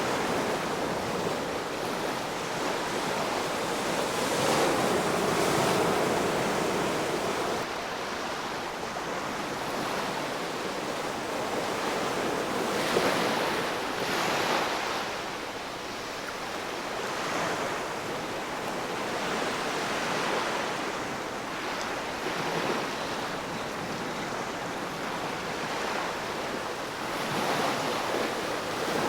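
Ocean surf: waves breaking and washing in, a steady rushing noise that swells and falls in several surges a few seconds apart.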